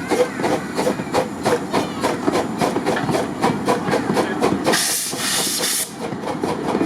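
Park-railway steam train running with a quick, even rhythm of clicks, and a short hiss of steam about five seconds in.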